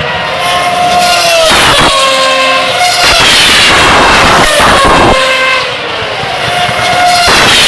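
Formula One cars' 2.4-litre V8 engines at high revs as several cars go by in quick succession, their engine notes falling in pitch as they pass.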